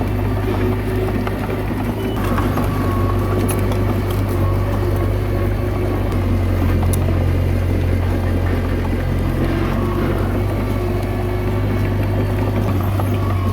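Komatsu D21A bulldozer's diesel engine running steadily, a constant low drone with a few light clicks over it.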